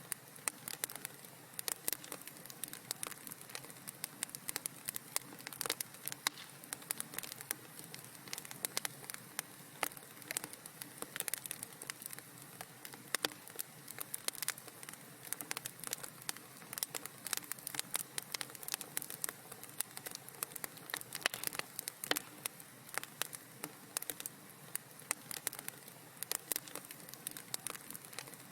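Wood fire in a fireplace crackling: dense, irregular small pops and snaps over a soft steady hiss.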